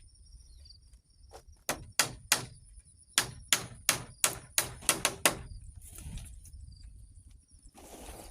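Repeated sharp blows of a hand tool striking, like chopping or hammering while building a shelter, in two runs of about three strikes a second. A short rustle follows near the end.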